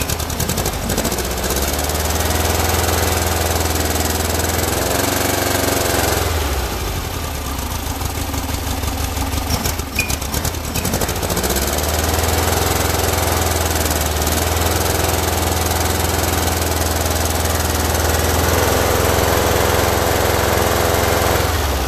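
Freshly built air-cooled Volkswagen flat-four running on its first start, revved up and held about a second in, dropping back around six seconds in, then revved and held again from about twelve seconds until just before the end. The revs are held up so that the distributor's advance is all in while the timing is set to 28 degrees.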